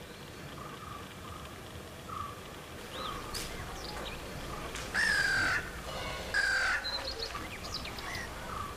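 Birds calling outdoors: two loud, harsh calls that fall in pitch, one about five seconds in and one about six and a half, among smaller chirps and faint repeated notes.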